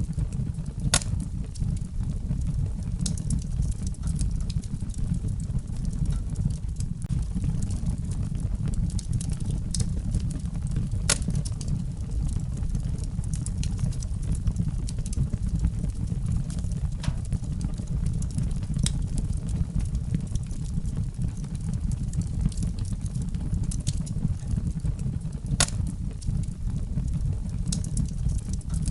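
Wood fire burning in a fireplace: a steady low rumble of the flames with scattered crackles and sharp pops, the loudest pops about a second in, about eleven seconds in, and near the end.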